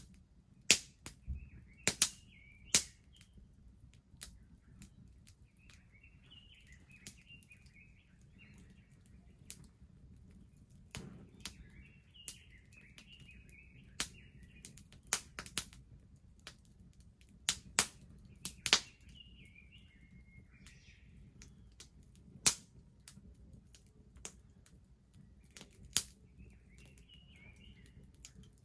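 Wood fire crackling, with sharp irregular pops and snaps over a faint low rush. Small birds chirp in short warbling phrases several times.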